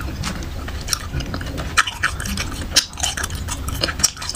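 Close-up chewing of a wax bottle candy, a soft edible-wax shell filled with blueberry jam, with irregular short clicks. The wax is only chewed, not swallowed.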